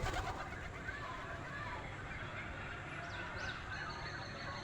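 Birds calling in short chirps over steady background noise, with a sharp click right at the start and a few quick rising chirps about three seconds in.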